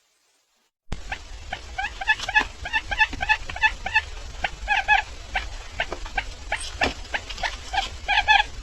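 Barred buttonquail calling: after a brief silence, a rapid, irregular run of short clipped notes at several pitches, over a low steady hum.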